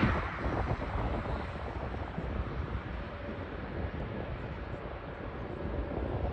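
Jet airliner engine noise fading away after a pass, leaving a low rumble, with wind buffeting the microphone.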